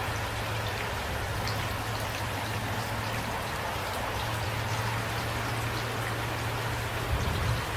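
Steady rain falling, with individual drops ticking through the hiss and a brief low thud near the end.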